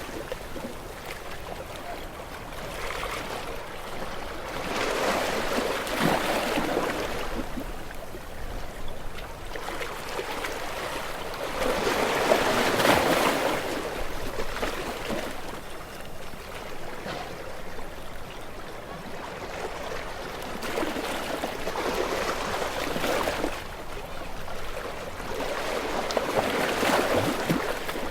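Small, gentle waves washing up on a shore and drawing back, each surge swelling and fading over a few seconds, the biggest one about halfway through.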